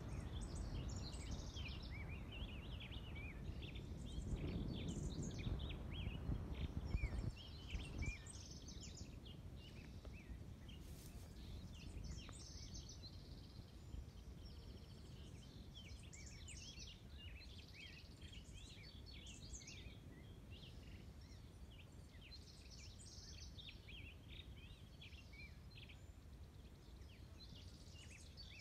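Small birds chirping and calling all through, many short quick chirps overlapping. A low rumble sits under them, louder for about the first eight seconds.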